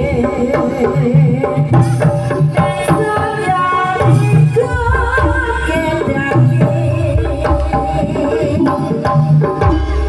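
Live jaranan (kuda lumping) troupe music: drums beating steadily under melodic instruments playing a stepped, repeating tune.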